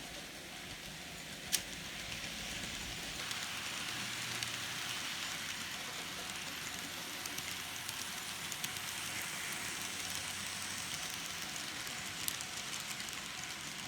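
N scale Kato U30C model locomotive running on track: a steady whirring hiss from its small motor and wheels, with scattered light ticks. It grows louder about three seconds in and there is one sharp click about 1.5 seconds in.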